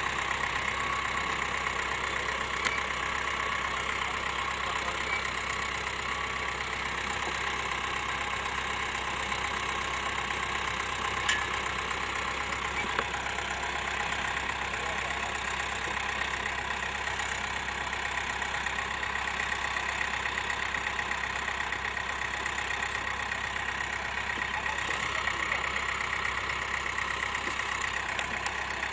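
An engine running steadily, with a constant whine and a few faint clicks.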